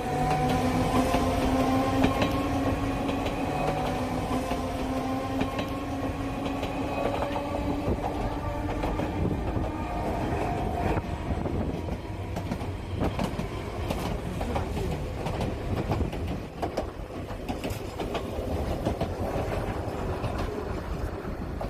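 Enoden electric train passing close by: a whine that rises slightly in pitch over the first ten seconds, then a rumble with rapid clicking of the wheels over the rail joints.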